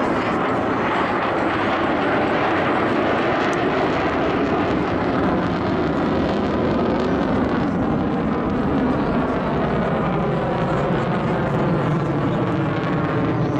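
Propeller aircraft flying overhead at an air display, its piston engine giving a steady drone.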